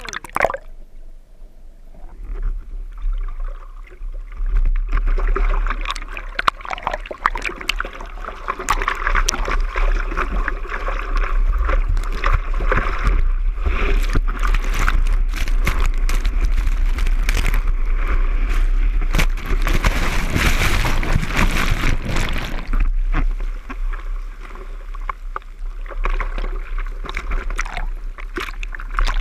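Seawater rushing and splashing around a surfer's camera in the ocean, with many sharp splash clicks over a steady low rumble. The rush swells to its loudest about twenty seconds in, then eases.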